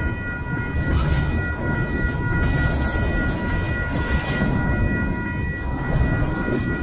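Double-stack intermodal freight cars rolling past at close range: a heavy, steady rumble with wheel clatter, brief surges of noise, and a steady high ringing tone held over it.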